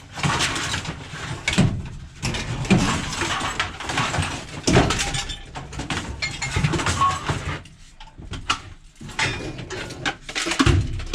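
Scrap metal clattering and clanking as pieces are thrown onto sorted piles, with repeated irregular knocks and a brief lull about eight seconds in.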